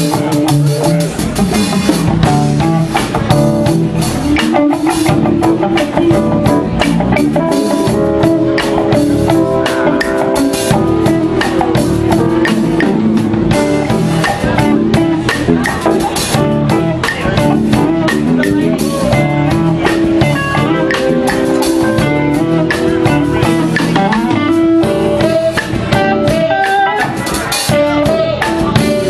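A band playing an instrumental stretch of a soul tune: drum kit keeping a steady beat under bass and keyboards, with a guitar carrying the line.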